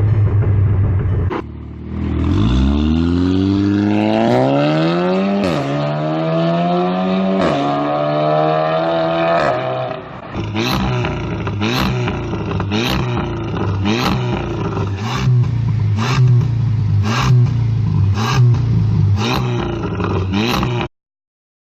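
Volkswagen Golf R Mk7's turbocharged 2.0-litre four-cylinder engine held at steady launch-control revs, then launching hard, its pitch rising through the gears with two quick DSG upshifts. From about ten seconds in the engine runs steadily under sharp cracks about once a second, and the sound cuts off suddenly near the end.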